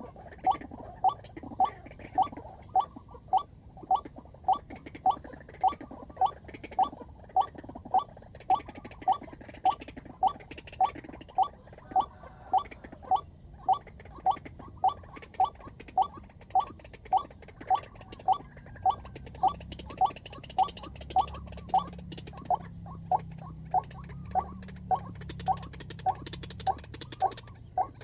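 White-breasted waterhen call: one short note repeated steadily, about twice a second, used as the lure in snaring the bird.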